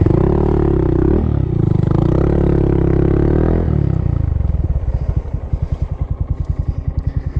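Honda Monkey's single-cylinder four-stroke engine pulling at higher revs for nearly four seconds, with a brief dip about a second in. It then drops back to low revs with slow, evenly spaced firing pulses.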